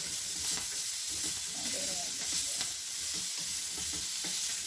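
Green beans sizzling steadily in hot butter as they are stir-fried in a pan, with light irregular scrapes and taps of the utensil stirring them.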